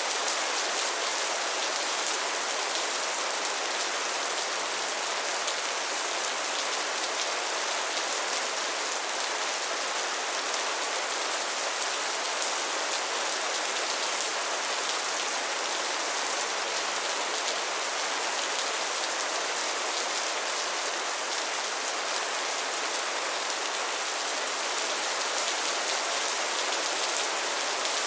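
Steady rain falling, an even hiss with fine pattering of drops on a surface.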